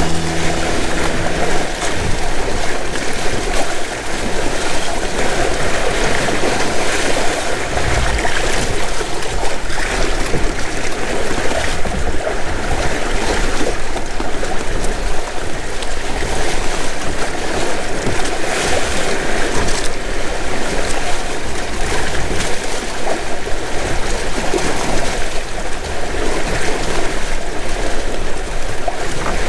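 Steady rush and splash of water along the hulls of a Windrider 17 sailing trimaran under way in choppy bay water, with wind noise on the microphone.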